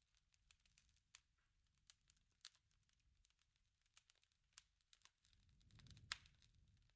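Wood fire crackling: scattered irregular pops and snaps over a soft low rush, building to one louder snap about six seconds in.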